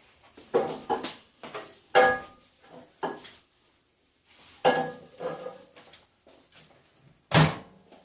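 Kitchenware being handled: a series of knocks and clinks, some with a brief ringing tone, the loudest near the end.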